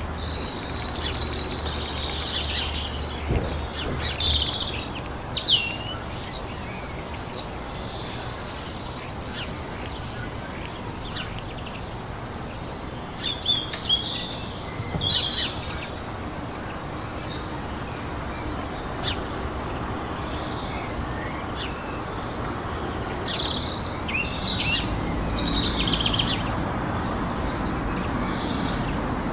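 Several small birds chirping and singing in short, quick calls over a steady low background hum.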